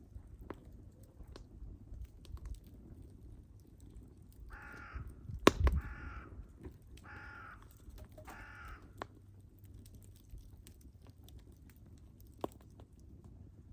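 Wood fire crackling with scattered pops, the loudest a sharp pop about five and a half seconds in. In the middle a bird caws four times, each call about half a second long.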